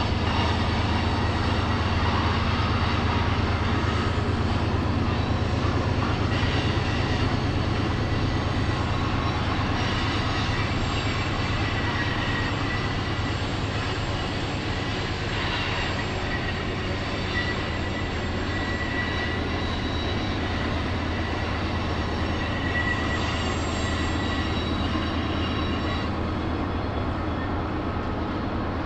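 Freight train rolling past with a steady low rumble of wheels on rail. A thin high wheel squeal comes and goes through the middle.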